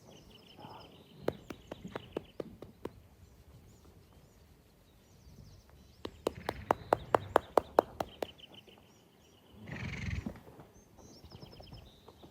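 Mustang's hooves knocking on the ground: a few scattered knocks early, then an even quick run of about six a second for two seconds. A bird trills several times, and a short noisy burst comes near the end.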